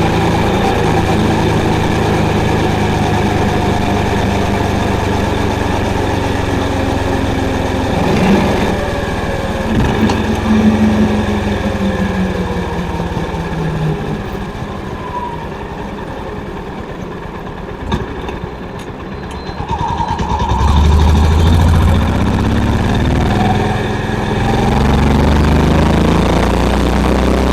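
Honda CB350's air-cooled single-cylinder engine and exhaust while riding: it runs steadily, falls quieter through the middle as the throttle eases off, then pulls louder again about 21 seconds in.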